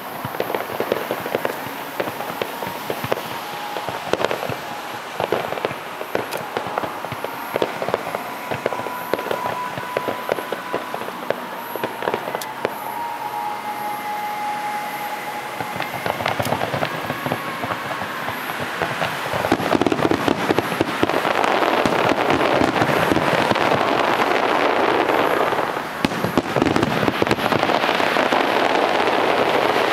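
Fireworks finale: a rapid, irregular string of bangs and crackles, with a few thin whistling tones in the middle. About two-thirds of the way in it thickens into a loud, dense, continuous crackle that dips briefly and then resumes.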